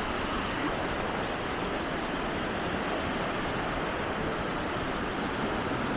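Steady outdoor rushing noise, even and without distinct events.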